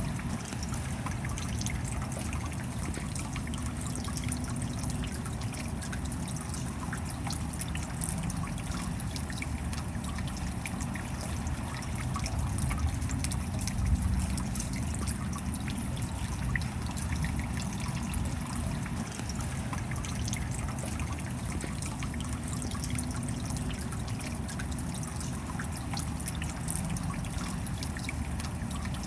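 Steady rain, many small drops ticking over a continuous wash of water noise, with a brief louder swell about halfway through.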